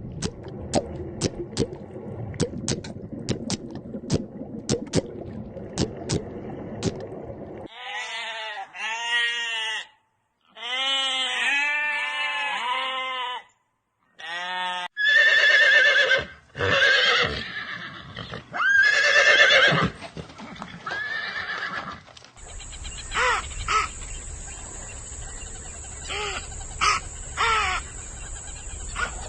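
A run of different animal calls cut one after another, with short silent gaps between them. There are short rising-and-falling pitched calls in quick series in the middle, then louder drawn-out calls, and a noisier stretch with a high steady tone near the end.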